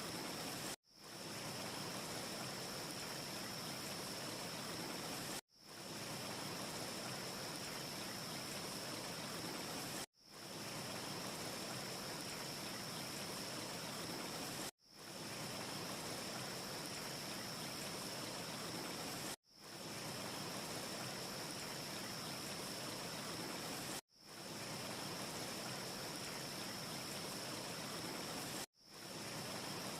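Steady rushing wind-ambience noise with a faint high hiss riding on it, from a short looped ambience track. About every four and a half seconds it drops out abruptly and fades back in where the loop restarts. No fire crackle can be picked out.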